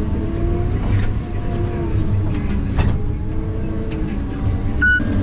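Diesel engine of a logging machine running steadily, heard from inside the cab, with a hydraulic whine that rises and falls in pitch as wood is handled and stacked. A sharp knock about three seconds in and a short high tone near the end.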